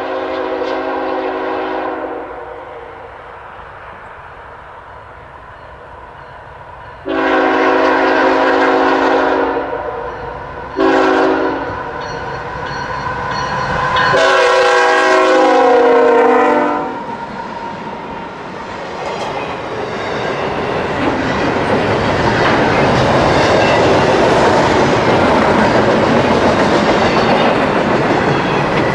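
A CSX freight locomotive's multi-chime air horn sounds the grade-crossing signal: the end of one long blast, then long, short, long, with the pitch of the final blast dropping as the locomotive passes. Then the double-stack container cars roll by with a steady, loud rumble of wheels and clickety-clack on the rails.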